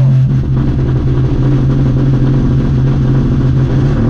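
MINI rally car engine heard from inside the cockpit, running loudly at steady revs while stationary on the start line.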